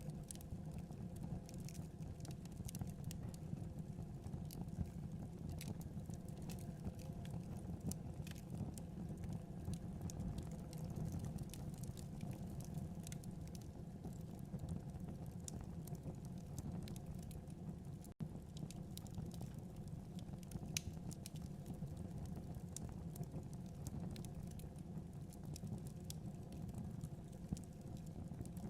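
Wood fire in a fireplace crackling, with frequent small irregular pops over a steady low rumble of flames. The sound cuts out for an instant about eighteen seconds in.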